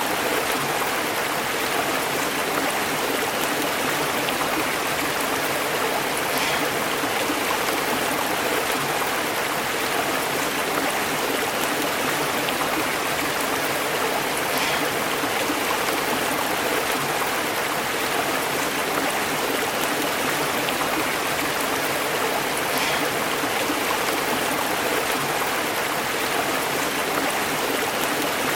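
Stream of water flowing and burbling over rocks: a steady, even rush without breaks.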